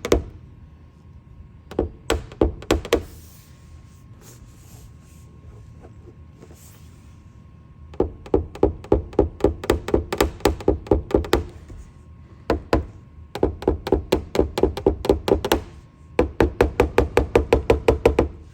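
Rapid light tapping on a car's roof panel in bursts of several taps a second, with short pauses between bursts. It is a paintless dent repair knockdown tool being struck with a hammer to work the metal down after a glue pull.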